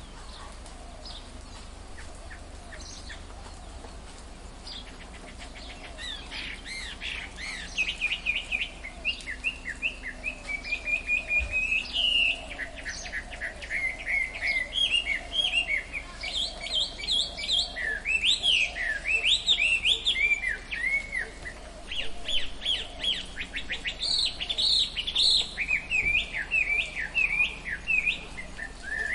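Tropical forest birds chirping and calling, with quick repeated chirps and rising-and-falling whistled notes overlapping. The calls are sparse for the first few seconds, then get busy.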